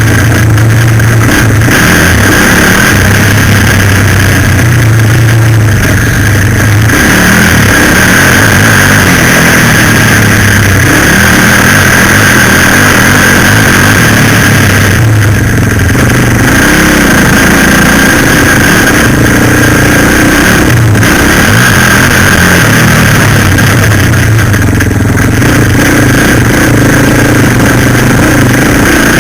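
Suzuki LTZ 400 quad bike's single-cylinder four-stroke engine running under way, its note rising and falling with the throttle, very loud on the bike-mounted microphone with a constant rushing noise over it.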